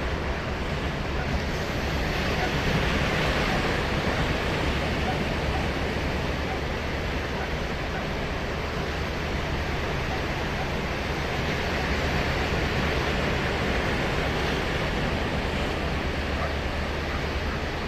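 Ocean surf breaking and washing up a sandy beach in a steady hiss, with the wash surging louder twice, a few seconds in and again past the middle.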